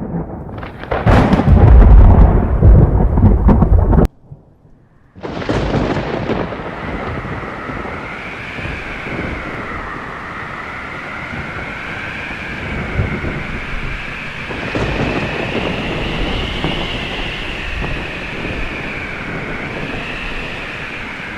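A loud rolling rumble of thunder that cuts off abruptly about four seconds in. After a short gap, steady storm noise of rain sets in, with a wavering whistle over it.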